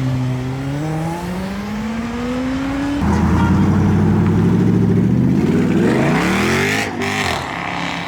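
A modified car's engine accelerating hard, its pitch climbing steadily. About three seconds in a louder, rougher exhaust note cuts in, then dips and climbs again near the end.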